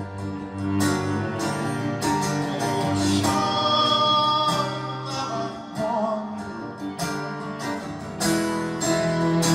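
Instrumental break in a song: acoustic guitar strummed in a steady rhythm, with a cello holding long sustained notes over it.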